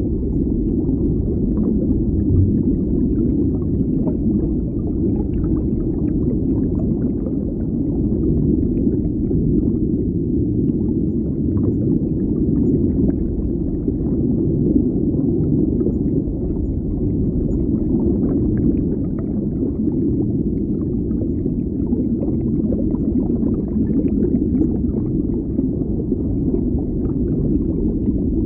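Underwater ambience: a steady, deep, muffled rumble of water with faint scattered bubbling ticks and crackles above it.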